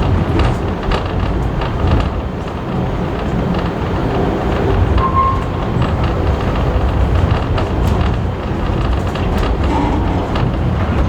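Railway passenger carriage running along the track, heard from on board: a steady low rumble of the wheels on the rails with scattered short clicks.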